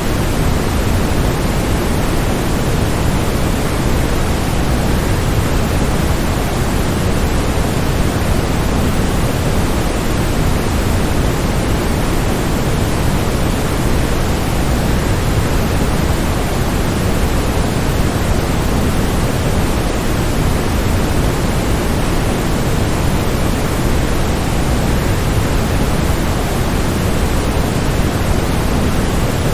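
Steady rush of a waterfall, an even noise of falling water heaviest in the low end, with no changes or separate sounds.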